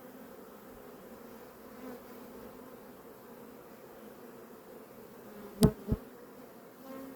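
Honeybees in an open hive humming steadily. Two sharp knocks come close together a little before the end.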